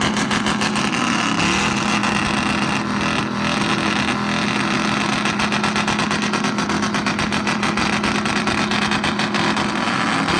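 Loud motor-vehicle engine running close by at a steady, fairly high speed, its exhaust pulses coming in a fast, even rhythm, with a slight rise in engine speed about a second and a half in.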